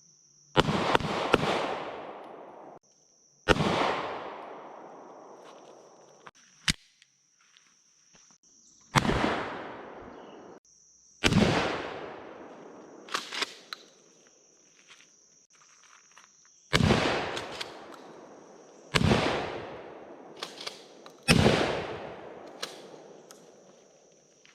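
A series of single gunshots several seconds apart, each a sharp crack followed by a long fading echo, with a steady high insect buzz behind them.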